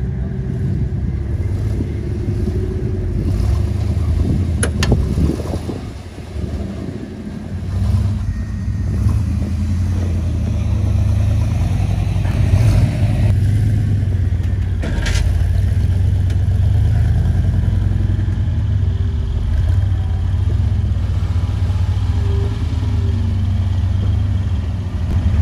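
Off-road 4x4 vehicle engine running steadily on a trail. It eases off about six seconds in and picks up again a couple of seconds later, with a few short sharp knocks along the way.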